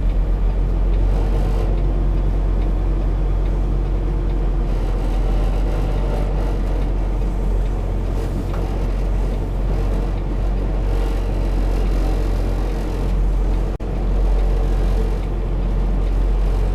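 Semi truck's diesel engine running at low speed, heard from inside the cab as a steady low drone, with one brief break about fourteen seconds in.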